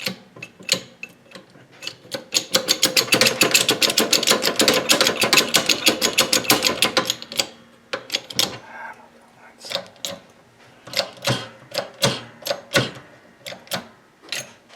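Ratchet wrench being worked, giving a fast, even run of clicks for about five seconds, then slower, scattered clicks.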